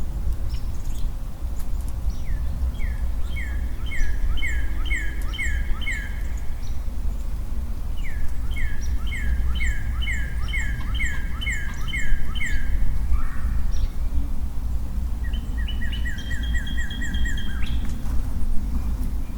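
A songbird singing three phrases, each a run of repeated slurred whistled notes at about three a second, over a steady low rumble.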